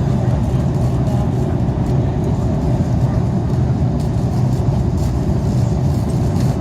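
Steady low rumble of an Airbus A330's engines and airflow, heard from inside the passenger cabin.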